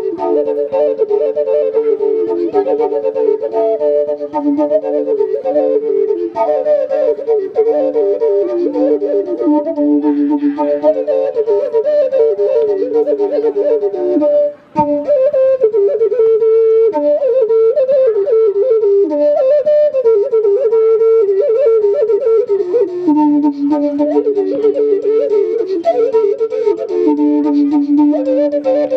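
Live woodwind music: a flute-like melody running over held lower notes, with a momentary gap about halfway through.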